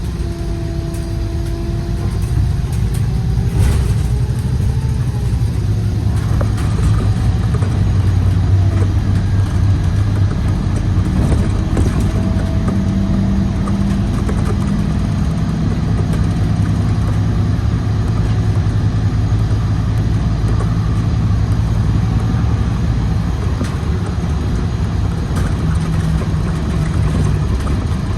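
Scania Citywide LE CNG city bus driving, its gas engine and drivetrain running steadily under the road noise, with faint tones that rise and fall as it speeds up and slows.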